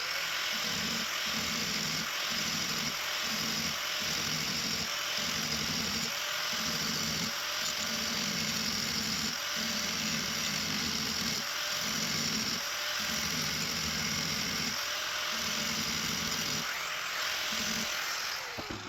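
Electric grinder with a grinding stone running steadily against a steel door-hinge pin, grinding off the peened end. The motor holds a steady whine while the grinding sound swells and drops again and again as the stone bears on the metal.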